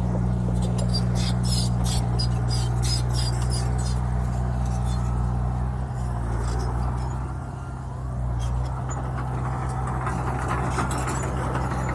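Bulldozer's diesel engine running steadily under work, easing off briefly about seven to eight seconds in. Light clicking and rattling sits over it in the first few seconds.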